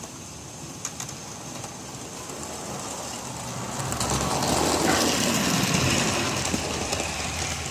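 HO-scale model train running on its track: the small electric motor whirring and the wheels rolling on the rails. It gets louder about halfway through, then eases off a little.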